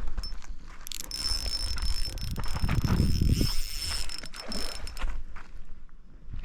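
Fishing reel drag giving line to a hooked fish: a steady high buzzing whine from about one second in, stopping near the five-second mark, with rod and reel handling noise underneath.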